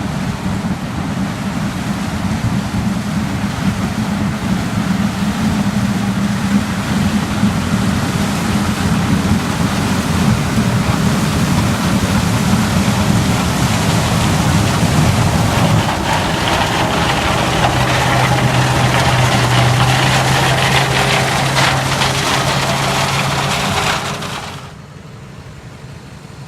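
Heavy diesel vehicle engine running steadily under way, with a deeper steady drone coming in about two-thirds through; the sound drops off suddenly near the end.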